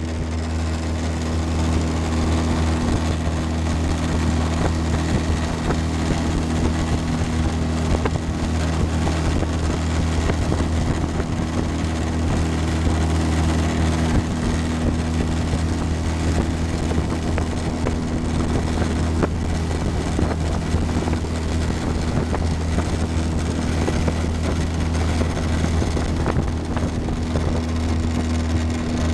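Motorboat engine running at a steady speed, a constant low hum under a steady rushing noise of wind and water.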